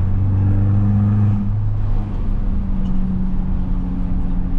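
Straight-piped, turbocharged Mercedes-Benz C250 engine and exhaust droning steadily on the move. The deepest part of the drone drops away about a second and a half in, and a lighter drone carries on.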